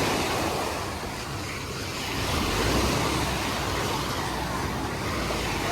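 Small sea waves washing onto the beach and drawing back, swelling and fading in a slow rhythm, with a surge building about halfway through.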